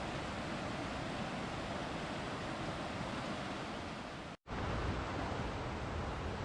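Steady rushing of falling water, with a split-second silence about four seconds in where the audio is cut. After the cut the rush carries more low rumble.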